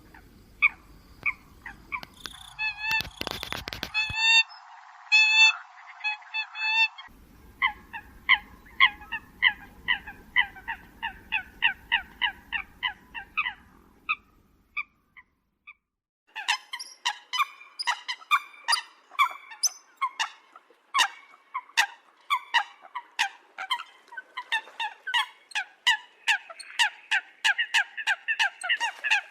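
Eurasian coot (sâm cầm) calling: short, sharp calls repeated two to three times a second in long runs. The recording is cut together from segments, with abrupt changes and a brief pause about halfway through.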